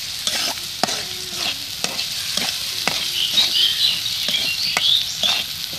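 Onions, green chillies and ground spices sizzling in hot oil in a wide metal karahi while a spatula stirs them, scraping and knocking against the pan about twice a second. This is the masala, the spice base, being fried.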